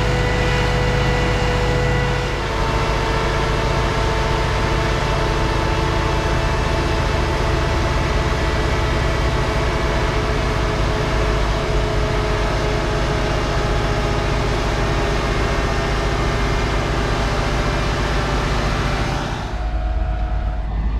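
Heavy harvest machinery running steadily: a loud engine rumble with a whine of several steady tones, which shift slightly about two seconds in. The sound changes abruptly near the end.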